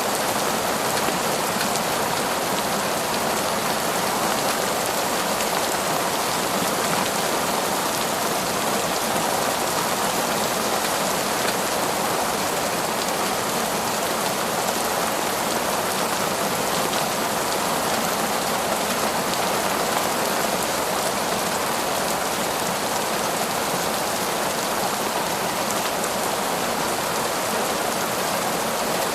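Heavy torrential rain falling in a forest: a steady, even hiss of downpour that does not change.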